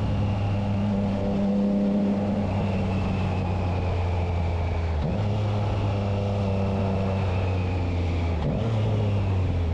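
Triumph Trident 660 inline three-cylinder engine running through a Spark exhaust with the dB killer fitted. It holds a steady note, with two brief dips in pitch about five and eight and a half seconds in.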